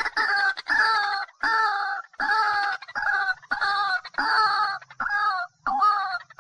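A bird calling over and over: about nine loud calls, each roughly half a second long, coming a little more than once a second.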